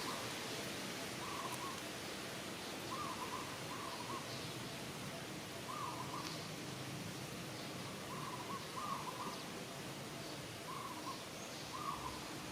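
Short hooting animal calls repeated every second or two, some coming in pairs, over a steady background hiss.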